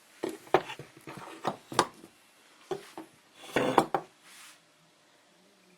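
Parts of a disassembled WE M14 EBR gas blowback airsoft rifle being handled: scattered clicks and knocks, with the loudest cluster about three and a half seconds in.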